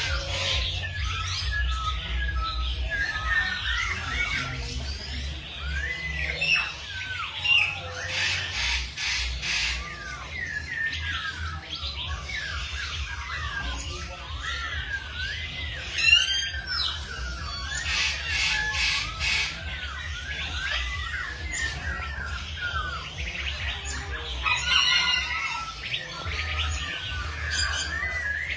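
Many birds calling at once: a dense chorus of short, rising and falling chirps and squawks, with a sharp louder call about sixteen seconds in. A steady low hum runs underneath.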